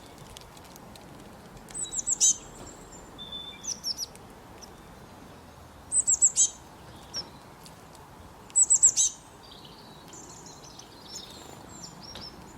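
A small songbird chirping: three quick bursts of four or five high, sharply falling notes, a few seconds apart, with softer scattered notes between them.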